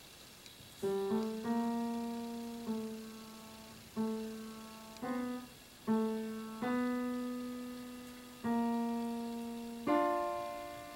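Background piano music: a slow melody of single struck notes, each ringing and fading before the next, with a last, fuller note near the end.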